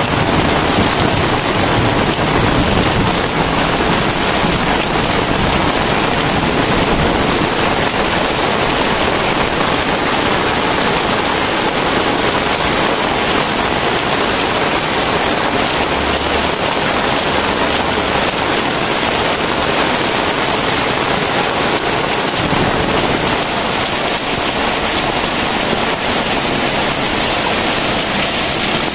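Very heavy rain pouring down steadily, a dense, even hiss with no letup.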